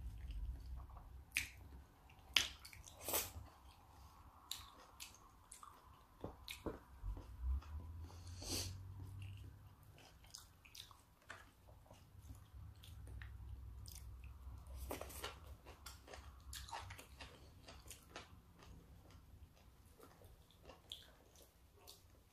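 Close-up mouth sounds of someone chewing raw salmon sashimi, with wet smacks and scattered short clicks throughout.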